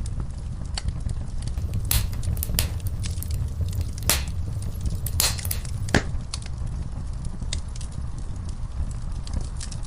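Wood fire in a fireplace crackling: a steady low rumble of flames under irregular sharp pops and crackles, with a few louder pops in the middle.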